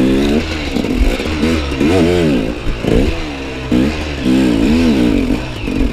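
Enduro dirt bike engine revving up and falling back again and again, every second or so, as the bike is ridden over rough, wet forest ground.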